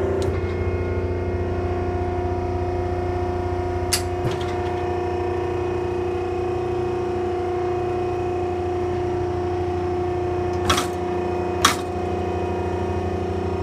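A baler running with a steady mechanical hum, broken by a few sharp clicks: two faint ones about four seconds in and two louder ones about a second apart near the end.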